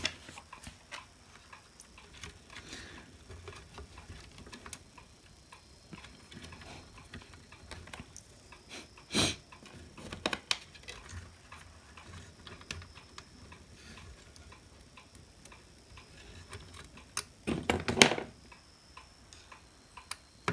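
Scattered small clicks and ticks of hot air gun handle parts being handled and fitted back together, with a sharper knock about nine seconds in and a short burst of rattling near the end.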